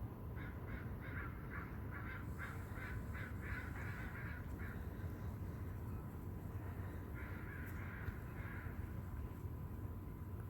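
A bird calling in a rapid run of about a dozen short calls, then a second, shorter run a few seconds later, over a steady low rumble.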